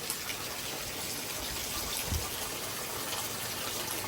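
Heavy thunderstorm rain pouring down steadily in gusty wind, with a brief low thump about two seconds in.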